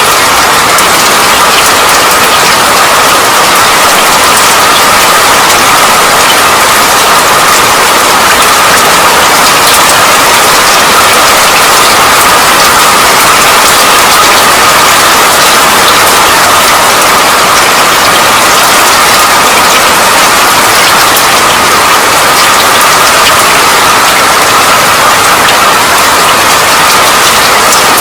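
Steady rain: a dense, even hiss with a fine patter of drops.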